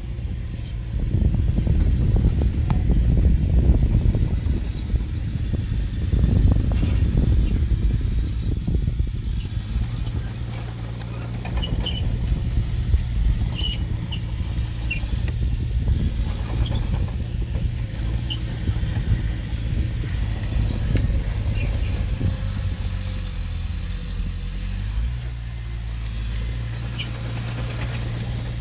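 Diesel engine of heavy earthmoving equipment running, working harder and more unevenly in the first ten seconds or so, then settling to a steadier drone. Brief high squeaks and clinks are scattered through it.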